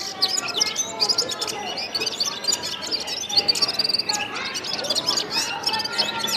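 A gulsar songbird singing: a rapid, continuous run of high chirps and twittering notes.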